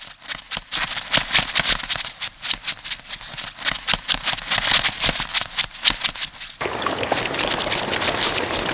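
Crab sound effect: a dense, fast clatter of sharp clicks like claws scuttling and clicking. About six and a half seconds in it switches suddenly to a steady hiss.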